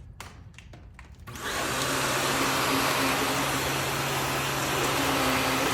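2017 Chevrolet Camaro RS cold start in track mode: after a few clicks the engine fires about a second in and settles into a loud, steady fast idle through the open exhaust.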